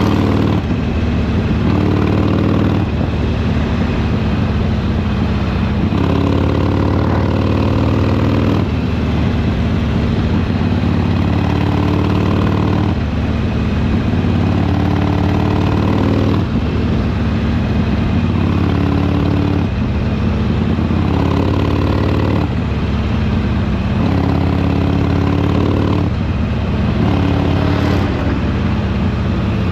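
Harley-Davidson Sportster Iron 883's air-cooled V-twin running on the road, its exhaust note rising in pitch and dropping back repeatedly every two to four seconds as the throttle is rolled on and off.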